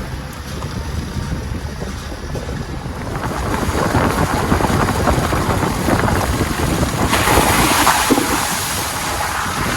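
Road and tyre noise of a vehicle driving on a wet road, a steady low rumble with a hiss that grows louder about three seconds in and is brightest near the end.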